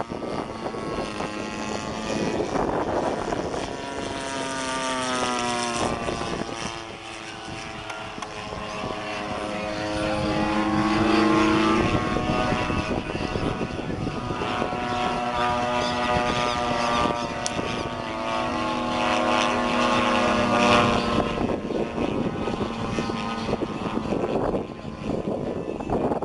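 Radio-controlled aerobatic model airplane engines running with propellers, their pitch sliding down, climbing and holding steady in turns as the planes throttle and manoeuvre.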